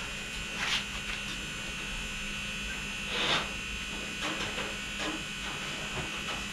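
A steady electrical-sounding buzz, with a few short scratchy sounds over it.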